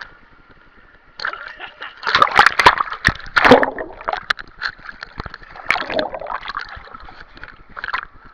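Water splashing and sloshing close to the microphone in irregular bursts, loudest about two to four seconds in.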